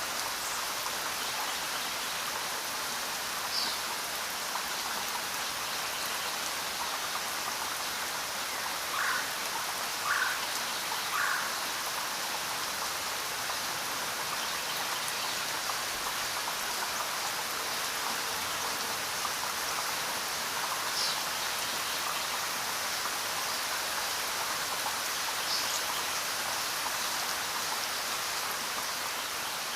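Steady rain falling as an even hiss. A few short chirps sound over it, three in a row about a second apart near the middle.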